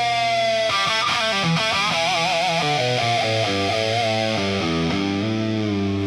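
Blues-rock guitar solo on a distorted electric guitar: a long held note that sags slightly in pitch, then notes shaken with wide vibrato and a run of stepping notes over a low bass line.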